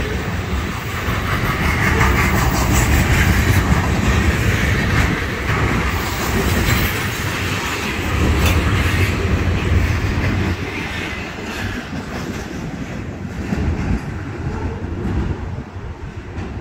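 Freight train of loaded trash-container flatcars rolling past at close range: a steady low rumble with wheels clacking over the rail joints. It grows quieter over the last few seconds as the train moves off.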